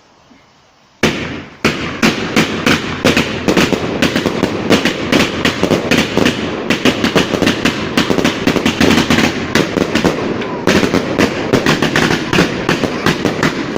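Fireworks going off in a rapid, dense barrage of sharp cracks and bangs. It starts abruptly about a second in and continues without a break.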